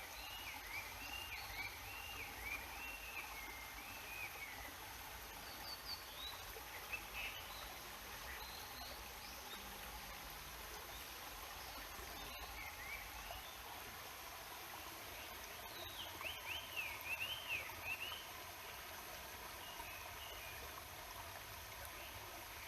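Steady rush of a babbling stream, with a songbird singing quick warbled phrases over it: a long run at the start, a few scattered notes, and another run about two-thirds of the way through.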